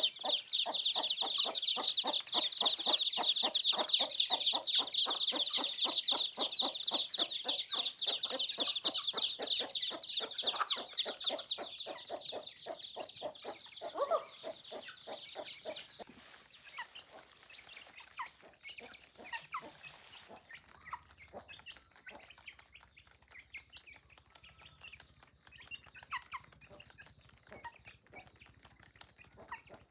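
Chickens clucking, with a dense, high-pitched chirring over them that fades out about halfway through, leaving only scattered faint calls.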